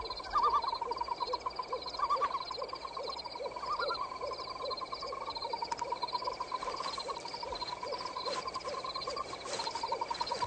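Night-time nature ambience of frogs and insects calling together: a fast trill, high chirping, and a low croak repeating about three times a second.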